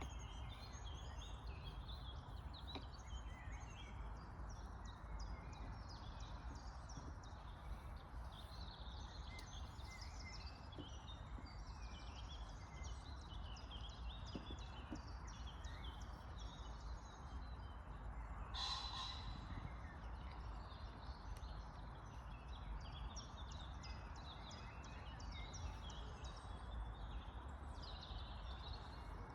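Faint birdsong: many small birds chirping on and off over a low steady rumble, with one louder call about two-thirds of the way through.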